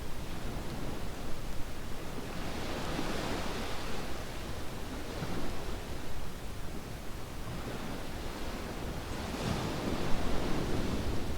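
Surf washing onto a beach in a steady rush, swelling up with a breaking wave about three times.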